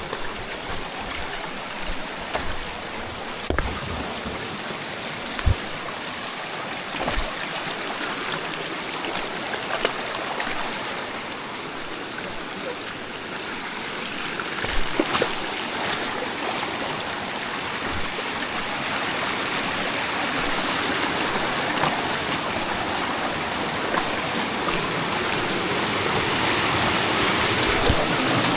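Water rushing in a creek and waterfall, a steady wash that grows louder over the second half, with a few short knocks scattered through it.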